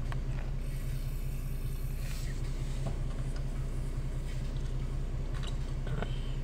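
A car engine idling, a steady low hum, with a few faint clicks.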